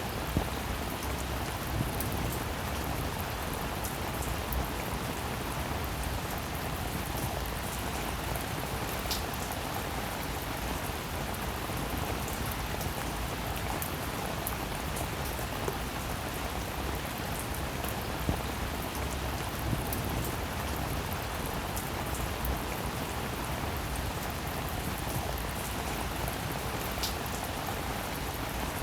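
Steady rainfall, with occasional nearer drops landing as sharp taps; a couple give a brief high ping.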